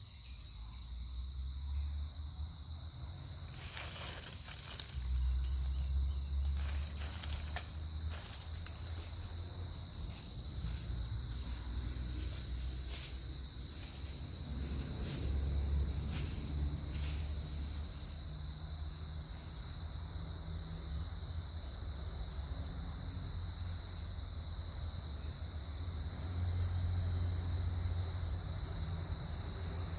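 Steady high-pitched chorus of insects, with a low rumble underneath and a scattered run of faint clicks and rustles in the first half.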